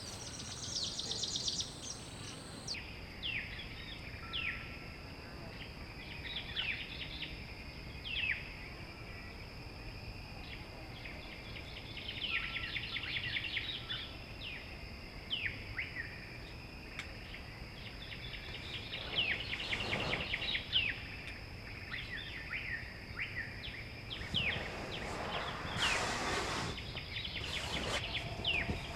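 Birds chirping and trilling, many short calls scattered throughout, over a steady high-pitched tone and a faint background hiss.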